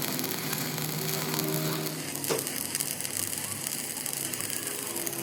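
Electric arc welding on a truck rear axle housing: a steady crackling hiss from the arc.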